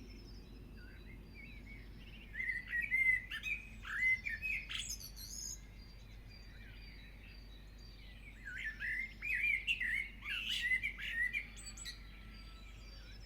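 Birds chirping and tweeting with quick high chirps and short warbling notes in two bouts, starting about two seconds in and again around eight seconds in.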